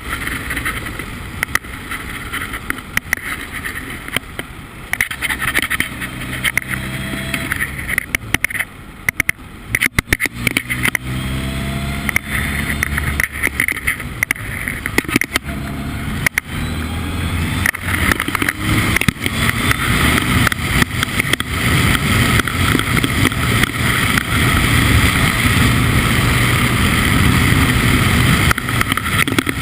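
Formula Ford race car engine running hard at speed, its pitch rising and falling with throttle and gear changes, with many sharp knocks and buffets over it. It grows louder and busier over the second half.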